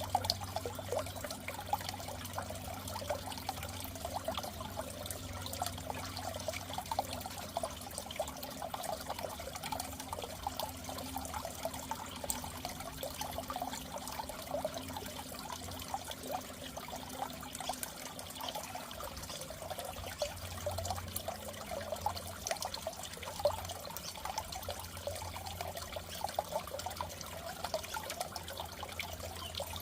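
Water trickling and bubbling steadily in a goldfish aquarium, over a low steady hum.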